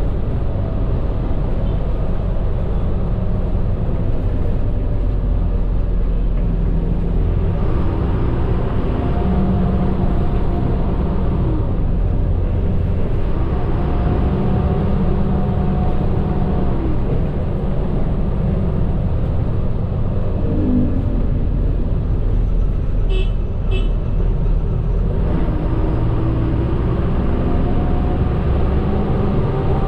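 Medium bus driving, heard from inside the cabin: a steady low engine and road rumble, with a faint whine that rises in pitch several times as the bus picks up speed.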